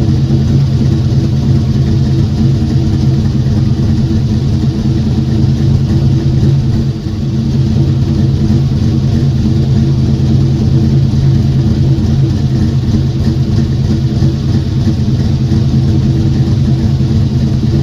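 Car engine running steadily at an unchanging speed, with a brief dip in level about seven seconds in.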